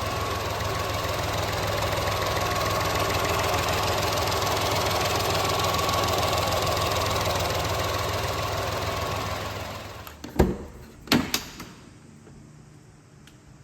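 1996 Honda Acty truck's small three-cylinder engine running steadily for about ten seconds, then dying away as it is switched off. Two sharp, loud thumps follow, about a second apart.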